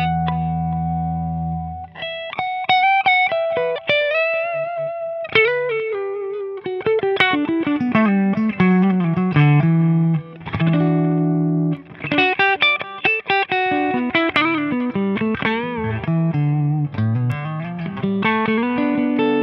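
Electric guitar, a Fender Stratocaster played through a Walrus Audio Deep Six V3 compressor pedal into a 1974 Marshall JMP 100-watt Super Lead amp. A chord rings for about two seconds, then come picked single-note lines and double-stops with bends and slides.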